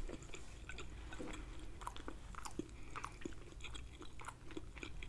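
A person chewing a mouthful of food close to the microphone: faint, irregular wet mouth clicks and smacks.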